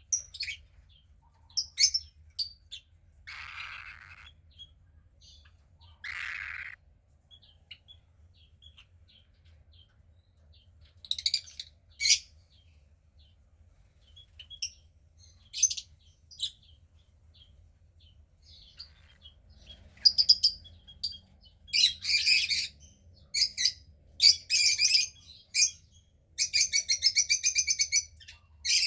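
Cockatiel chick calling: scattered short high chirps, two brief breathy hiss-like sounds early on, then a louder run of calls in the second half that ends in a rapid pulsing call lasting about two seconds.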